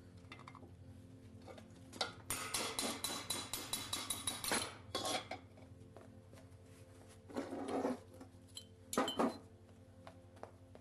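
Loose metal tools and parts clinking and rattling against each other: a clatter of about three seconds, then two shorter bursts, over a faint steady hum.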